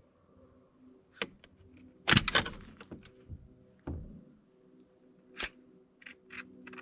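Sharp clicks and metal clatter from handling the parts of a cordless grease gun while it is being reassembled, with a busier burst of clatter about two seconds in.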